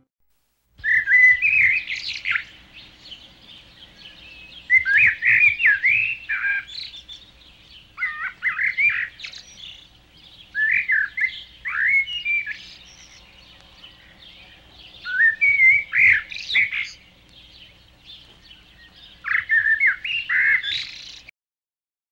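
A songbird singing in six separate warbled phrases, each a second or two long and a few seconds apart, with fast sweeping notes and squeaky high ends. A faint steady low hum runs underneath.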